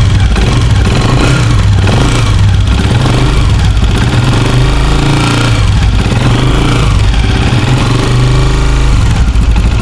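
Motorcycle engine running steadily with a very bad mechanical noise from the valve train. The mechanic traces it to a rocker-arm pin worn on one side, a noise that other mechanics would blame on the cam gear.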